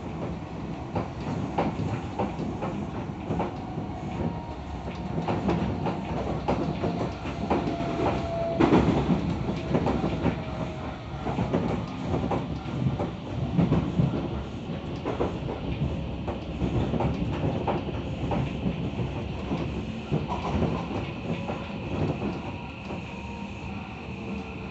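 Tokyo Metro 17000 series electric train running, heard from inside the car: a steady rumble with the wheels clacking over rail joints, loudest about 9 and 14 seconds in. A faint motor whine rides over it, and a higher steady tone comes in near the end.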